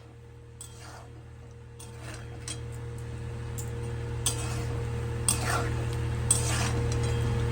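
Spatula scraping and clinking against a kadai as frying potatoes are stirred, the strokes getting louder from about four seconds in, over a steady low hum.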